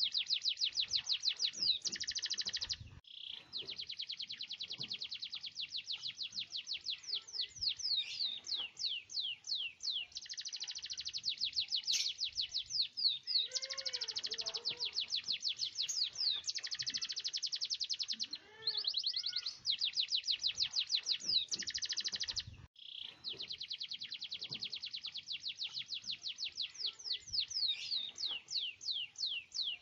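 Canary singing long, continuous rolling trills of rapid repeated notes, with short breaks about three seconds in and twice more past the middle.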